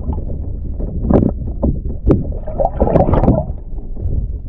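Water sloshing and splashing with irregular knocks and handling sounds on a kayak, over a steady low rumble of wind on the microphone.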